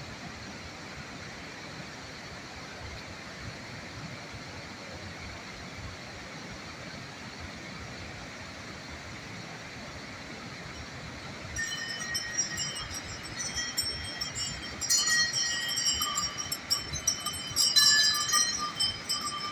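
Steady rushing background noise, then chiming, bell-like ringing tones come in about twelve seconds in and grow louder, overlapping irregularly.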